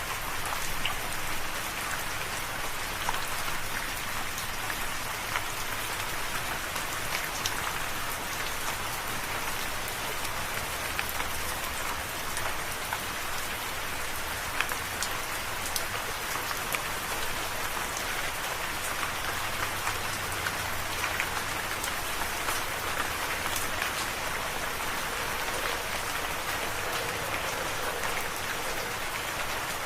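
Steady rain falling on a surface, an even hiss with many small distinct drop ticks throughout.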